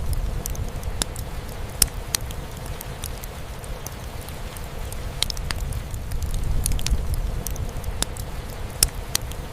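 Fireplace crackling, with sharp pops scattered irregularly and two louder ones about two seconds in and near the end, over a steady low rumble of rain drumming on a roof.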